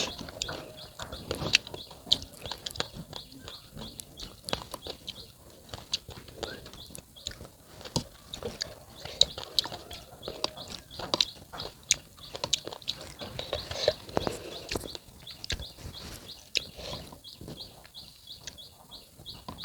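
Close-up chewing of crisp raw unripe fruit: irregular sharp crunches, several a second, with wet mouth sounds between them.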